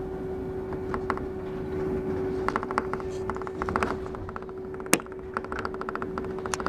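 Mont Blanc Express train running, heard inside the carriage: a steady hum from the train's drive, with a fast clicking rattle from about two and a half seconds in and one sharp click about five seconds in.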